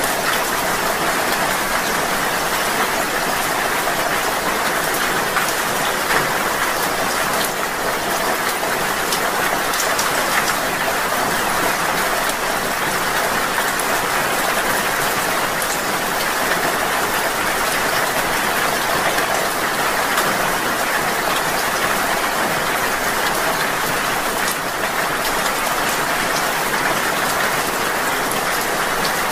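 Rain falling steadily: an even, dense hiss with faint scattered drop ticks.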